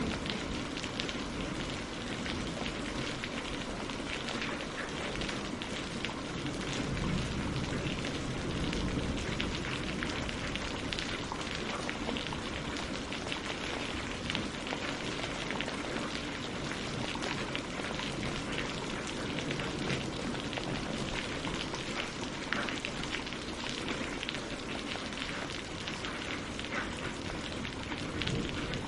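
Steady rain falling on leaves and on the surface of a lake, a dense patter of many drops.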